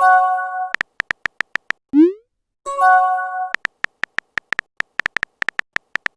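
Phone-chat sound effects: a short synthetic chime chord twice, each followed by a run of rapid key-tap clicks, and a quick rising pop about two seconds in.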